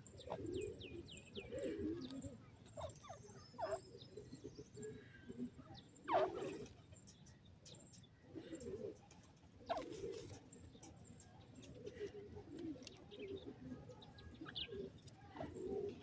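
Soft, low bird calls repeating every second or two, with sharp downward-sweeping calls, loudest about six and ten seconds in.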